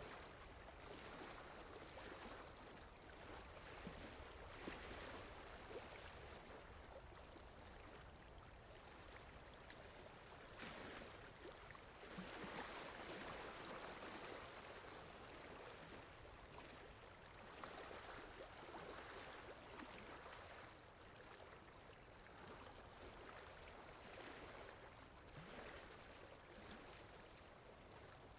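Steady rain falling, a soft, even hiss that swells and eases gently every few seconds.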